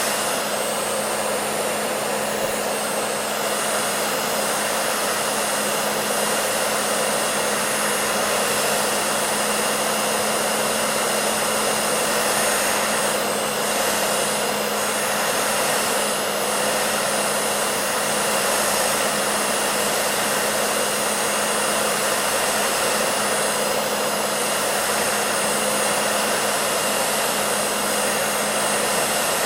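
Hair dryer running steadily: a constant rushing of air over a steady motor hum.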